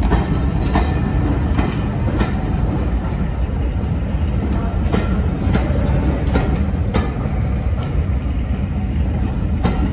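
Maroon heritage railway passenger coaches rolling past the platform as the class 24 diesel-hauled train departs: a steady low rumble of wheels on rail with irregular clicks and knocks from the wheels and running gear.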